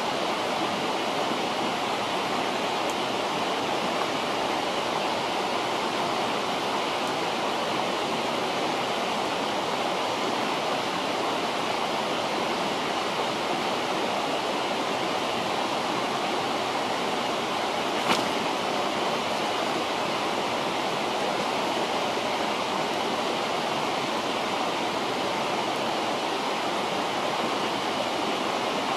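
A river flowing steadily, with one sharp pop from the campfire about two-thirds of the way through.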